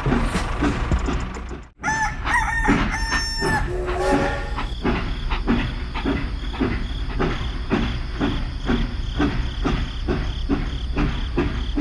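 A rooster crows about two seconds in, right after a sharp cut in a rhythmic mechanical sound. A small engine then chugs steadily at about two beats a second.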